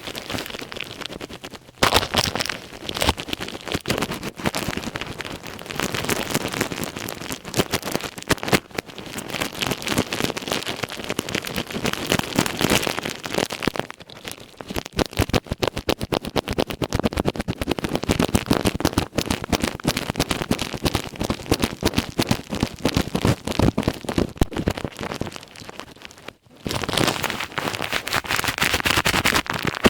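Ear pick scratching and scraping over a plastic ear cap: a dense crackle of close clicks, pausing briefly about two seconds in, near nine seconds and near the end.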